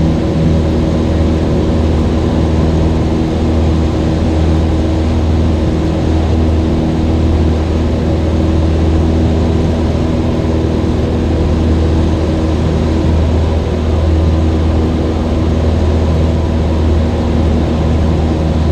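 Cessna 172's piston engine and propeller droning steadily, heard from inside the cabin while the plane is in a climb.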